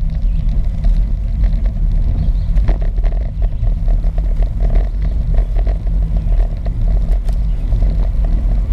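Steady low rumble of wind buffeting the microphone and tyre noise from riding a bicycle along a road, even throughout with a few faint ticks.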